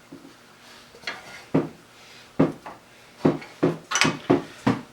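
Irregular metal clanks and clinks, about eight in all, as a wrench works a very tight arbor nut loose on the blade of a 1950s Black & Decker Lectrosaw circular saw.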